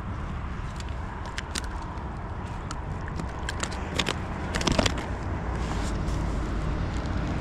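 Wind buffeting the microphone, with scattered small clicks and a short cluster of louder knocks about four to five seconds in.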